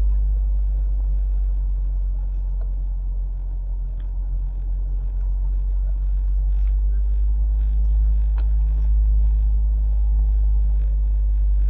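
Mazda MX-5 ND's four-cylinder engine and road noise heard from inside the cabin: a steady low rumble that swells slightly about two-thirds of the way through.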